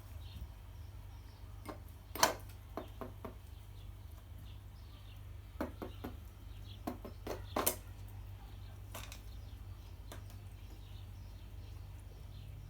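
A bird pecking at cat food in a bowl: irregular sharp taps of its beak against the dish, in short clusters, the loudest about two seconds in, over a steady low hum.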